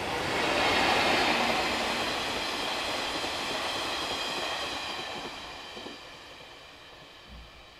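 JR East 185 series electric train passing, loudest about a second in and then fading steadily as it moves away.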